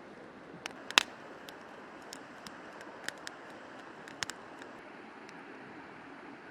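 River water rushing steadily, with a scattering of short sharp clicks and taps, the loudest about a second in, dying away after about four and a half seconds.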